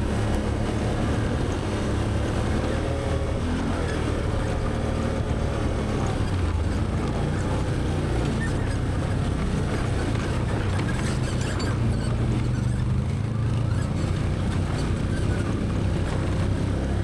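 Can-Am Outlander 850 XT ATV's V-twin engine running steadily at trail-riding speed, with wind noise on the microphone.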